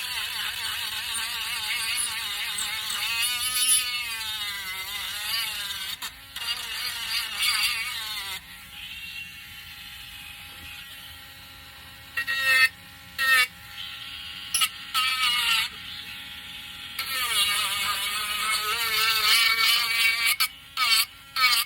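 Small electric sander running against wood. Its whine wavers up and down in pitch as it is pressed and moved, settles to a steadier, quieter hum in the middle, then comes in several short bursts before running hard again near the end.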